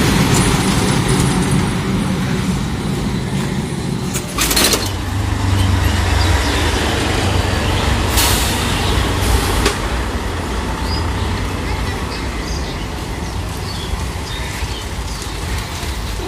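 Heavy truck engine running on a road, a steady low rumble amid traffic, with short sharp hisses about four and eight seconds in.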